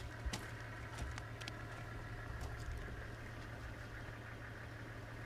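A four-wheel-drive vehicle's engine idling with a steady low hum, with a few footsteps on loose stones in the first few seconds.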